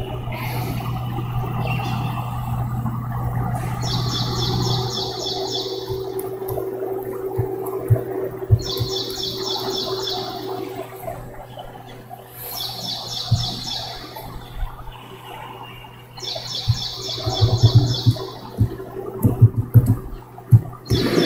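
A bird calls a high, rapidly pulsed trill lasting about a second and a half, repeated five times, roughly every four seconds. Under it runs a steady low hum, and a few scattered clicks and knocks come near the end.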